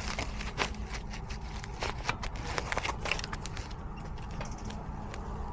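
Irregular small clicks and light scrapes of hands handling a damper motor and its set screw, over a steady low hum.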